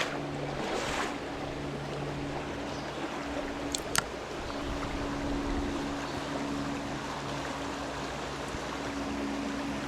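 Flowing stream water, a steady rushing hiss, with a faint steady low hum underneath and one sharp click about four seconds in.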